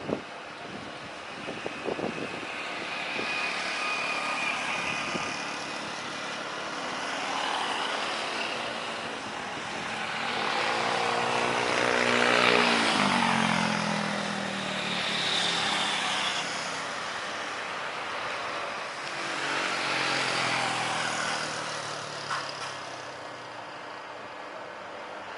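Traffic passing by: two vehicles go past one after the other, each falling in pitch as it passes, over a steady background hum.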